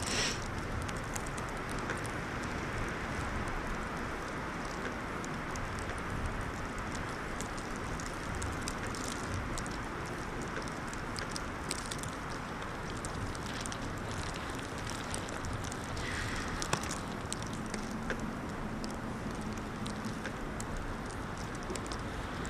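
Steady wind noise from a winter snowstorm, with light scattered crackles throughout.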